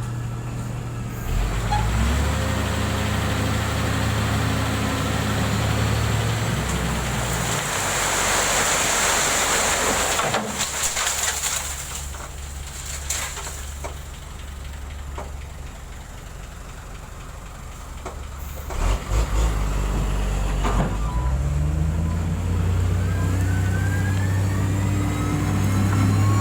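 Heavy diesel engine of road-building equipment running and working under load, with a loud hiss about eight seconds in. The engine eases off in the middle and picks up again, rising in pitch near the end.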